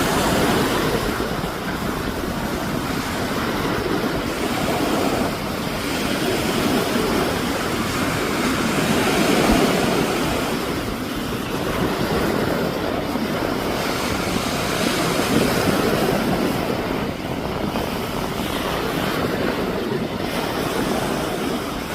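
Hurricane-driven wind and surf: a steady, loud rushing noise that swells and eases every few seconds, with no engine or voice in it.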